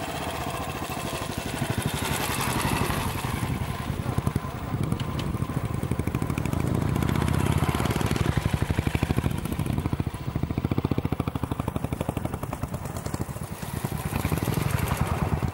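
Royal Enfield Bullet motorcycle's single-cylinder engine running with a steady, rapid pulse.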